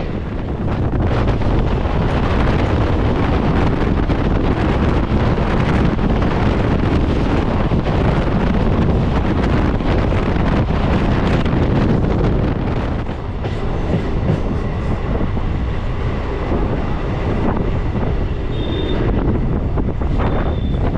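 Suburban local train running at speed: a loud, steady rumble of wheels on the track with rattling knocks. A thin, high squeal joins about halfway through.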